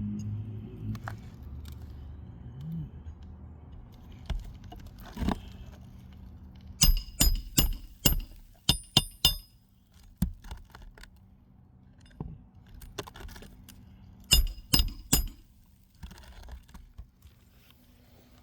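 A 16-ounce hammer driving roofing nails into asphalt shingles as a shingle row is nailed down: a quick run of about eight sharp, ringing strikes, then after a pause a run of about four more, with a few lighter knocks in between.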